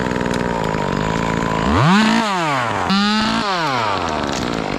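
Chainsaw running, revved up twice near the middle, each time the engine note sweeping up and falling back before it settles to a steady run again.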